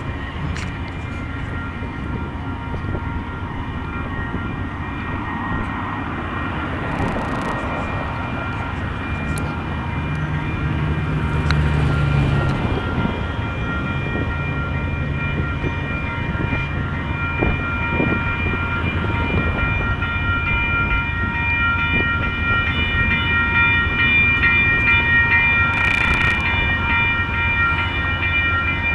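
Passenger train rolling slowly into the station, a steady low rumble under a high metallic squeal of several held tones that sets in about halfway through and grows louder toward the end.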